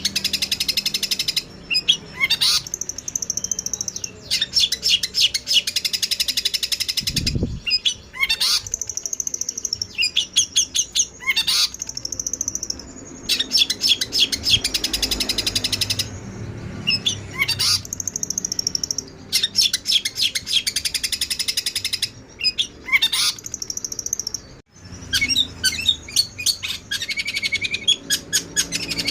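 Songbirds chirping in fast, high, rattling trills and chatter, in bursts of one to a few seconds with short gaps between them. A brief low thump comes about seven seconds in.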